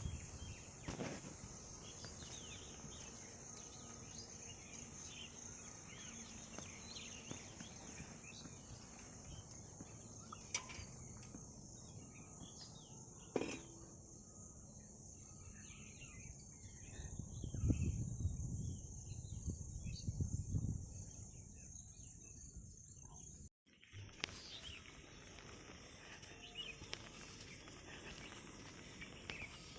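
Rural outdoor ambience: a steady high insect drone with scattered bird chirps. A low rumble rises for a few seconds about two-thirds of the way through, and the sound drops out for an instant shortly after.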